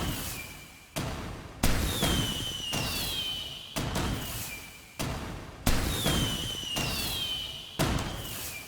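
Fireworks bursting: about six sharp bangs at uneven intervals, each dying away, with whistling tones that fall in pitch after several of them.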